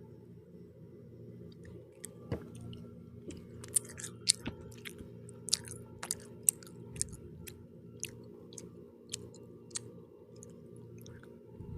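Close-up chewing of pizza, with sharp wet mouth clicks and crunches of the crust scattered through the middle, over a steady low hum.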